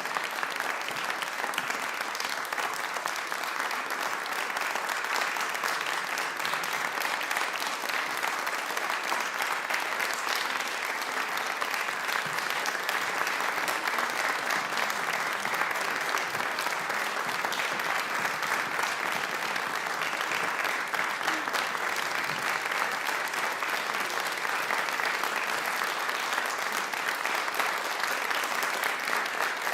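Audience applauding, a steady, even clapping that holds at the same level throughout.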